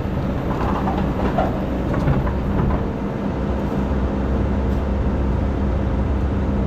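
Hydraulic excavator's diesel engine running steadily under load, with a few metallic clanks and scrapes in the first couple of seconds.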